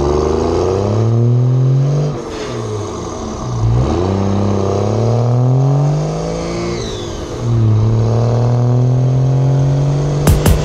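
Engine accelerating hard, its pitch climbing, dropping back as it shifts up and climbing again, several times over.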